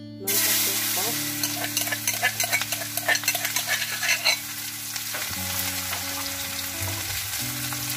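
Sliced onion tipped into hot oil in a wok, setting off a sudden loud sizzle, then frying steadily while a metal spoon stirs and scrapes against the wok with frequent clinks over the first few seconds.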